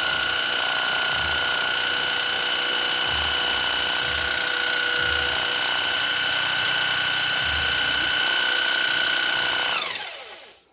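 Electric drill running at a steady speed, then released near the end, its whine falling in pitch as it spins down to a stop.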